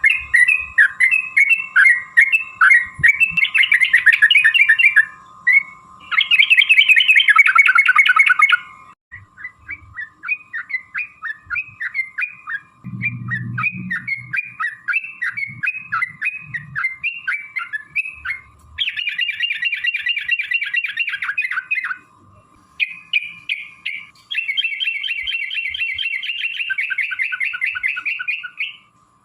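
Yellow-vented bulbul (trucukan) singing energetically: runs of quick, bubbly chattering notes broken by three long, fast rapid-fire trills (the 'ropel' phrases), the longest near the end. A faint steady high hum lies underneath.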